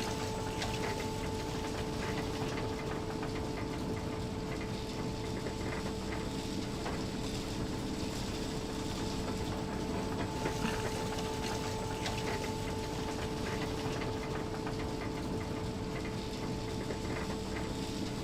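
Scrap-metal sorting plant machinery running steadily: a constant hum with a held tone over a haze of light rattling and scattered clicks.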